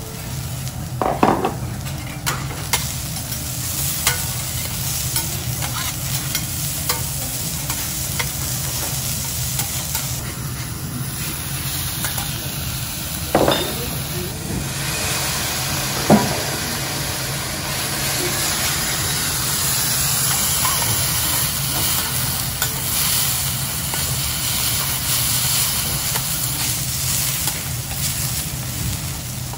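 Fried rice sizzling steadily on a hot steel teppanyaki griddle as it is stirred and spread, with a few sharp clacks of metal spatulas against the griddle, the loudest about a second in and again around 13 and 16 seconds in.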